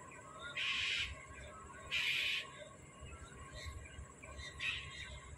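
A bird giving three harsh, raspy calls, each about half a second long and about one and a half seconds apart, the last one fainter. Faint chirping from other birds runs underneath.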